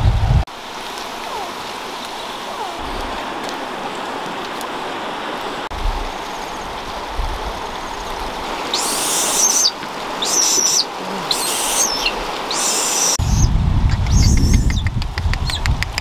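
Steady rushing outdoor ambience from river water, with a bird calling four short times in the second half. Close, heavy handling noise comes in near the end.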